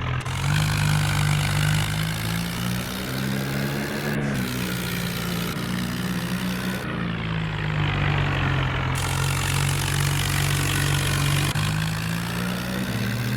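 Tractor engines running hard under load, their pitch stepping up and down a few times.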